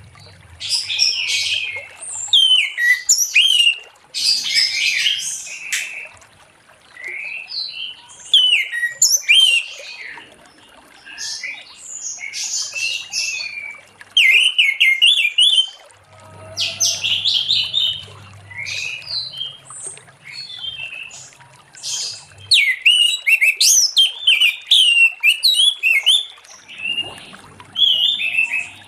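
Orange-headed thrush singing its full song: rapid, varied phrases of quick rising and falling whistled notes, in bursts of a second or two with short pauses between.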